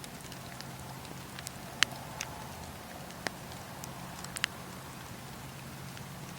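Wood fire in a fireplace crackling steadily, with a few sharp pops, the loudest a little under two seconds in.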